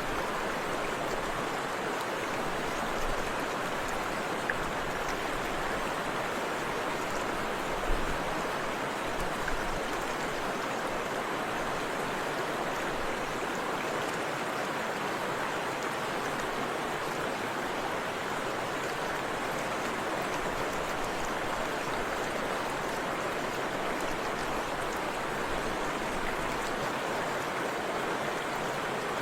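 Forest river flowing over a small waterfall: a steady rush of water, with a few soft low thumps about eight seconds in.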